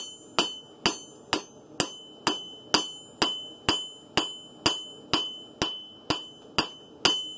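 Hand hammer striking hot san mai steel on an anvil in a steady rhythm, about two blows a second. Each blow has a short metallic ring.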